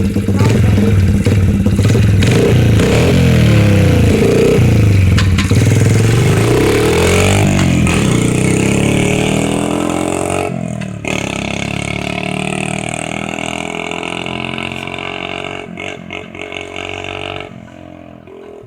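Small dirt bike engine running with the choke on, revved up and down for the first several seconds. Then it drops suddenly and runs more steadily, growing fainter, with a further fall-off near the end.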